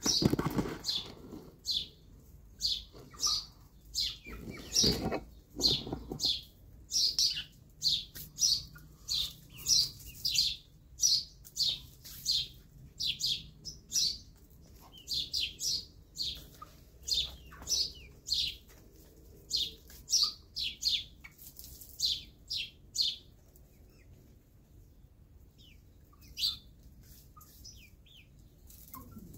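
Birds chirping: a long series of short, high chirps, about one or two a second, that thins out near the end. A louder rustling noise at the start and again about five seconds in.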